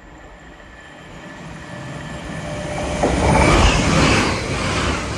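Lumo Class 803 electric express train running through the station at speed, its rumble and wheel-on-rail noise building steadily and peaking about three and a half seconds in.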